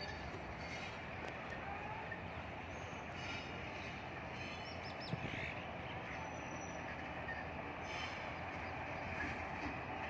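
Passenger train hauled by a WAP-4 electric locomotive approaching slowly: a steady running noise of the locomotive and coaches on the rails.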